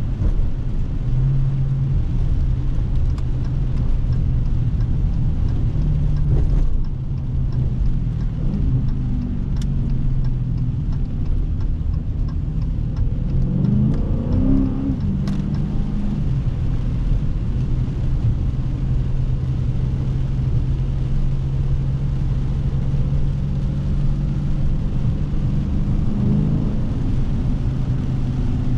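Dodge Scat Pack's 392 Hemi V8 running steadily while driving. About halfway through, the engine note rises briefly under throttle, then settles back to a steady cruise.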